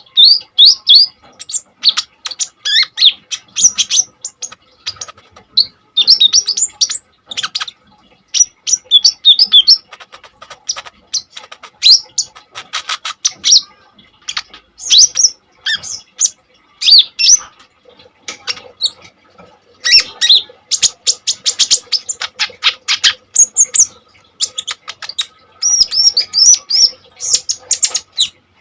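A kolibri ninja (konin) sunbird singing hard in quick bursts of high twittering and rapid ticking trills, broken by short pauses.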